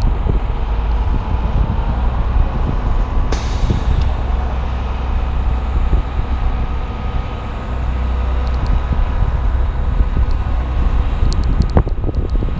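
Strong wind buffeting the action camera's microphone: a steady, heavy rumble, with a short hiss about three seconds in and a few light clicks near the end.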